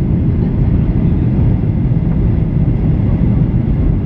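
Steady low rumble of a Boeing 737-800's engines and airflow, heard from inside the cabin.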